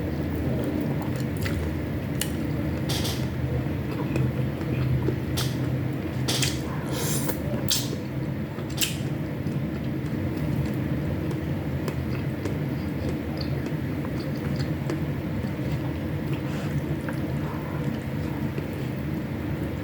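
Close-miked chewing and mouth sounds of a person eating egg and dried fish, with sharp clicks and smacks scattered through the first half, over a steady low hum.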